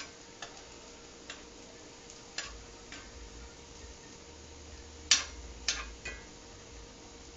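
Kitchen utensils clinking against cookware in about eight irregular sharp taps, the loudest a little after five seconds in, over a faint steady hum.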